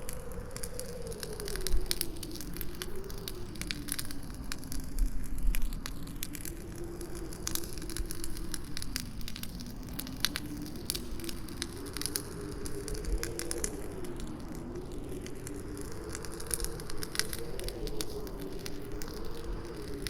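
Campfire crackling with frequent sharp pops, over a howling wind whose pitch slowly wavers up and down. Two low gusts swell briefly about two and five seconds in.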